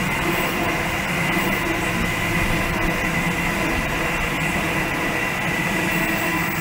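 Sydney Trains double-deck electric train moving past the platform: a steady rumble of wheels on rail with a held whine from its electric traction motors.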